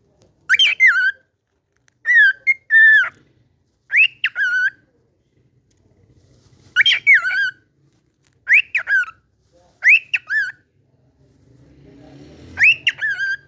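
A cockatiel whistling the same short tune over and over. Short whistled phrases, each rising and then dropping in pitch, repeat about eight times with short pauses between them.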